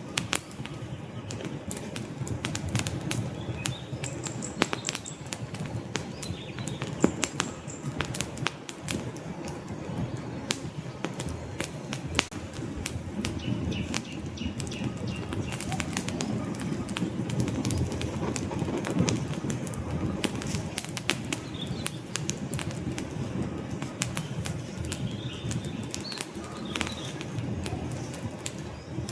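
Wood log fire crackling, with frequent sharp pops and snaps over a steady low rumble of the flames.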